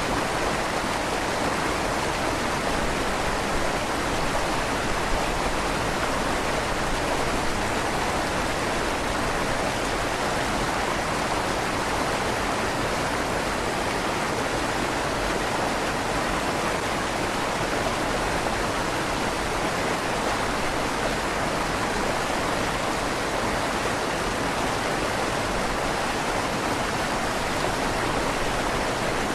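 River water flowing steadily under a stone bridge, a continuous rushing with a slight echo off the inside of the stone tunnel.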